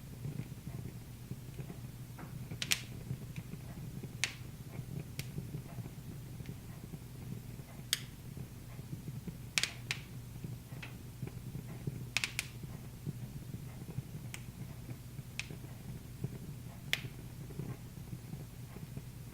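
Wood fire in a fireplace crackling, with irregular sharp pops every second or two over a steady low hum.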